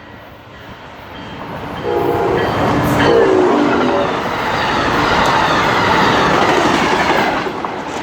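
A train passing at speed: a loud rush of wheels and cars builds about two seconds in and holds until near the end. Brief, quiet horn blasts sound about two to three seconds in; the horn is really quiet, which the watchers put down to the engineer not opening the horn valve fully.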